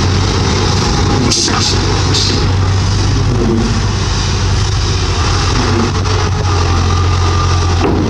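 Bulldozer's diesel engine running steadily with a deep hum, with a few short scraping sounds between about one and two and a half seconds in.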